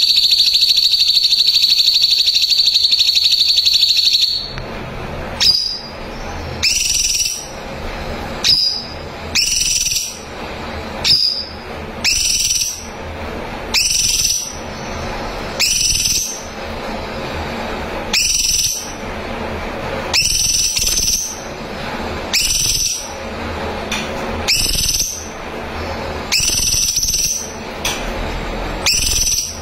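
Cucak cungkok singing: a loud, fast, buzzy trill held for about four seconds, then a long series of short rising whistled notes repeated every second or two.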